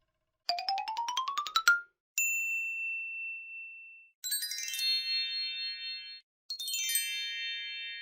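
A run of separate cartoon sound effects: a quick rising glide made of rapid pulses, then a single high ding that rings out and fades, then two descending chime runs whose notes pile up and ring on.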